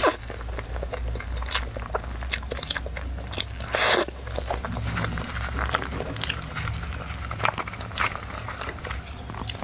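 Close-miked eating of a soft cream-filled matcha and red bean crepe roll: wet chewing with many small mouth clicks and smacks, one louder mouth noise about four seconds in. A steady low hum runs underneath.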